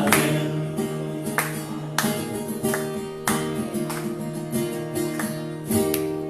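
Acoustic guitar strumming chords without a voice, the instrumental close of a song played live.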